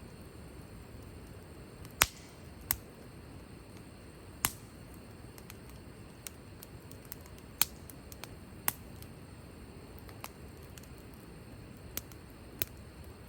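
Wood fire crackling: irregular sharp pops and snaps of burning wood over a low steady hiss of the flames. The loudest pop comes about two seconds in.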